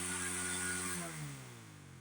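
A small engine running steadily, then its pitch falls and the sound fades away about halfway through.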